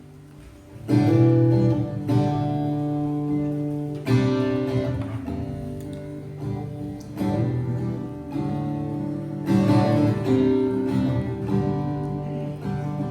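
Instrumental intro to a worship song: acoustic guitar strumming sustained chords. It starts quietly and comes in loudly about a second in, with strong new chords about four and nine seconds in.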